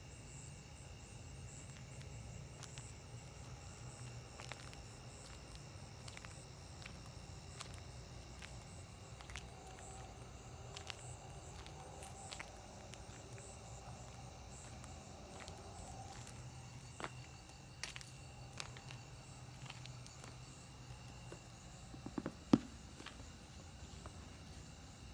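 Night insect chorus of steady high-pitched trilling over a low steady hum. Scattered faint clicks run through it, and there is a sharper knock about 22 seconds in.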